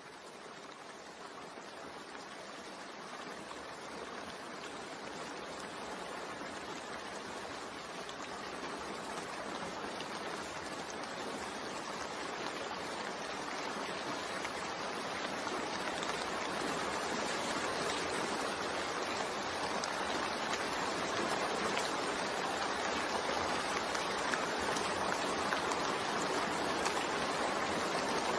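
Steady rain falling, an even hiss that swells gradually louder throughout.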